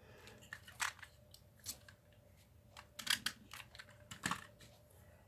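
A few light, scattered clicks and rustles from hands handling linen thread and card-making supplies on a table.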